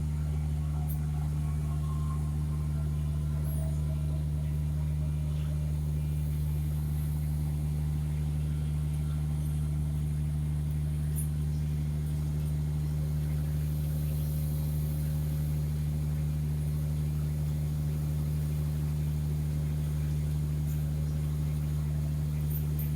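Heavy diesel engine running steadily with a low, even drone, with a faint falling whine in the first few seconds.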